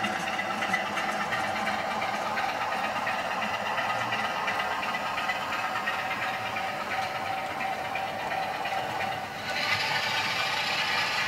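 DCC sound decoder in an OO gauge Bachmann Class 25 model diesel playing its diesel engine sound through the model's small speaker, steady, with wheels rattling over the track. The sound turns brighter and louder about nine and a half seconds in.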